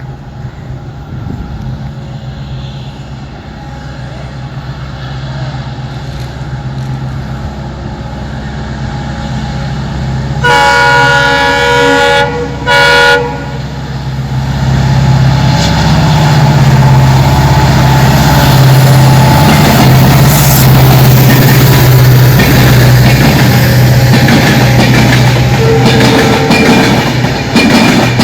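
A locomotive-hauled train approaching and growing louder, sounding its horn twice, a long blast then a short one, before passing close by loudly with a steady low hum and rail noise.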